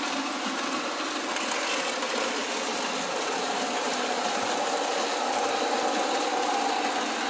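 Two O-gauge model passenger trains running on a layout: a steady whir of electric motors and wheels rolling on the metal track, with a faint motor whine coming up over the second half.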